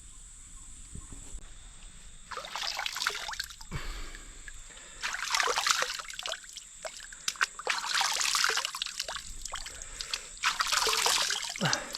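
Water sloshing and trickling in four bursts of a second or two each, with small splashes in them.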